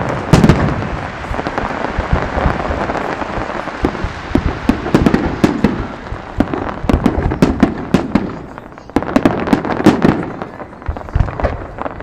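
Aerial fireworks display: a rapid string of bangs and crackles from bursting shells, thinning briefly about eight seconds in before picking up again.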